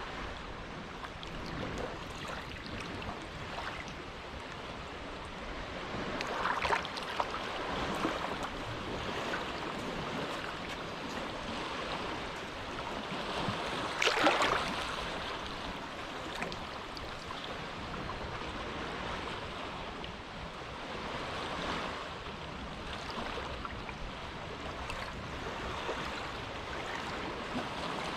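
Quiet waves lapping at the shore of a sheltered cove, a steady wash of water with a louder splash about fourteen seconds in and a smaller one about halfway before it.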